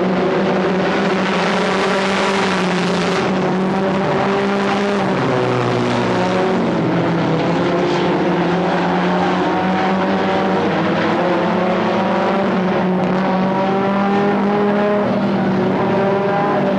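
Stock car engines running on the track, a loud, continuous engine note whose pitch shifts slightly as the cars go round.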